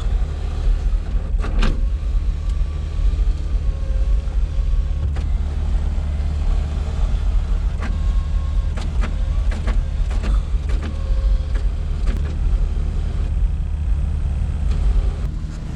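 Honda Accord's 3.0 V6 running as the car drives, heard from inside the cabin as a steady low drone, with scattered knocks and rattles throughout.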